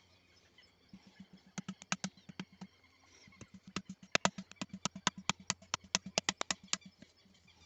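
A run of sharp, irregular taps or clicks, a few at first and then about three to five a second, over a faint steady low hum.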